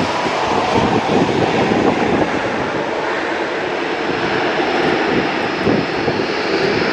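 Jet airliner engines, loud and steady, with a thin high whine coming in over the second half.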